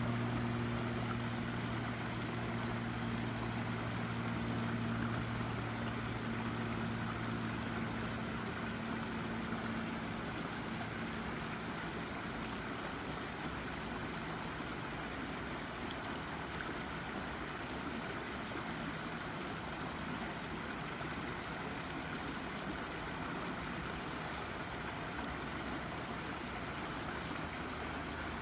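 Babbling brook: shallow water running steadily over rocks. A low mechanical hum, like a distant engine, is heard under the water and fades out about ten seconds in.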